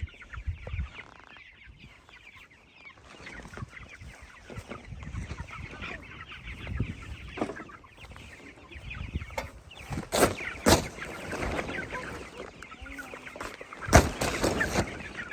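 Chickens clucking and chattering in a steady flock chorus. A few sharp knocks come about two-thirds of the way in, and the loudest one comes near the end.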